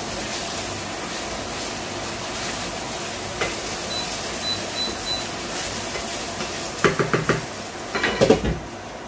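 Meatballs in tomato sauce sizzling in a frying pan while being stirred. About seven seconds in, the spatula gives four quick knocks on the pan. Then a glass lid clatters onto the pan, and the sizzle goes quieter once it is covered.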